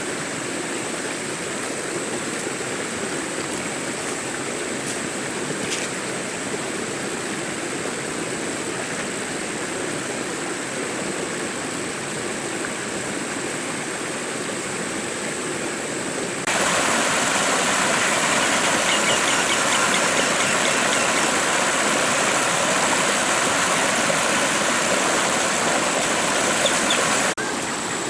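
Steady rushing noise like flowing water or rain. It turns suddenly louder and brighter about two-thirds of the way through, then drops back near the end. A thin high whine runs throughout.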